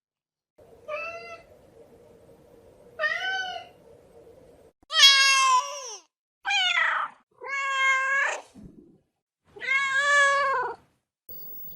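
A domestic cat meowing, six separate meows in a row, the loudest and highest about five seconds in.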